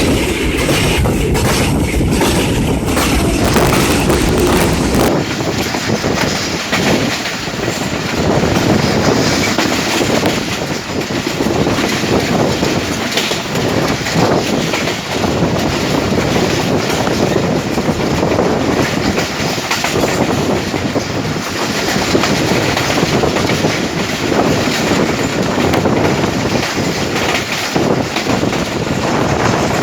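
Awam Express passenger train running through a station at speed, its carriages passing with a heavy rumble and a rapid clickety-clack of wheels over the rail joints.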